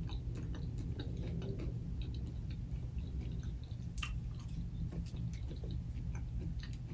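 A person chewing food with the mouth closed, close to a clip-on microphone: faint, irregular wet mouth clicks and smacks, with a slightly sharper click about four seconds in.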